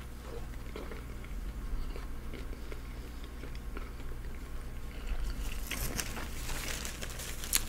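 Biting into and chewing a McDonald's Filet-O-Fish, a soft steamed bun with tartar sauce, with wet mouth sounds close to the microphone. From about five seconds in, a paper napkin crinkles, with one sharp click near the end.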